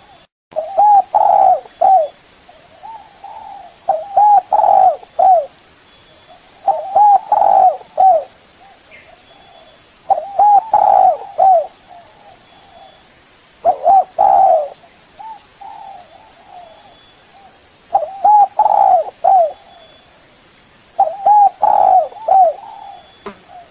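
Spotted dove (tekukur) cooing: seven phrases of a few rounded coo notes each, repeating about every three seconds, with a longer pause about two-thirds of the way through.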